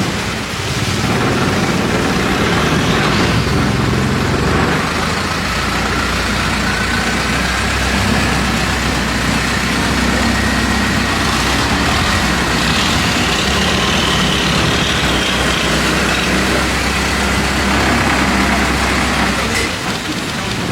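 Long-tail boat engine running steadily.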